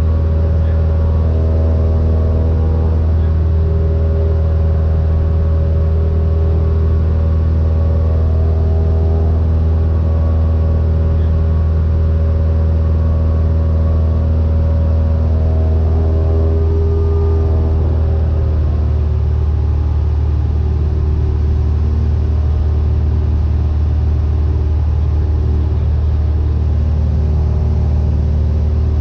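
Cessna 172N's four-cylinder Lycoming O-320 engine and propeller droning steadily in flight, with a constant low hum.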